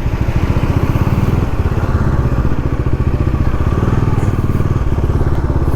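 Motorcycle engine running steadily under the rider, heard from the saddle as a low, even throb with wind and road noise over it.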